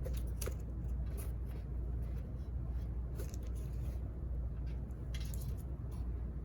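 Scattered light clicks and rustles of parts being handled, over a steady low hum.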